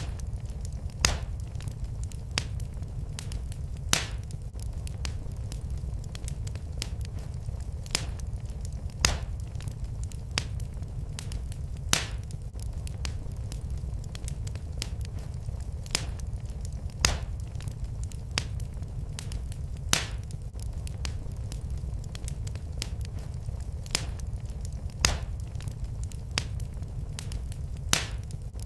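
Wood fire crackling in a fireplace: a steady low rumble with sharp pops every one to four seconds.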